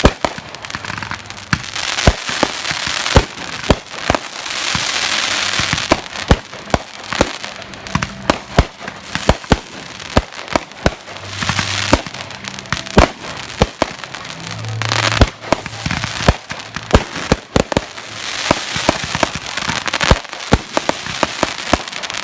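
Aerial fireworks display: many sharp bangs of shells bursting in quick, uneven succession, with stretches of dense hissing noise in between.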